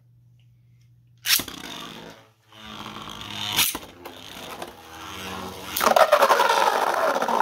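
3D-printed Beyblade spinning tops launched into a plastic stadium about a second in, then spinning and scraping across the floor with a sharp clash a few seconds later. Near the end comes a loud, rapid rattle of repeated hits as the tops clash.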